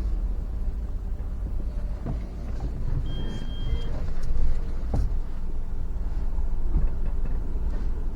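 Road vehicle on the move: a steady low rumble of engine and road noise, with a short, thin, high-pitched tone about three seconds in.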